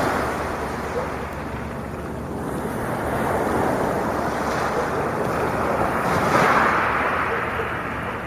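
Sea waves washing onto the shore, the surf fading after the start and swelling into a louder breaking wave about six seconds in, over a steady low rumble.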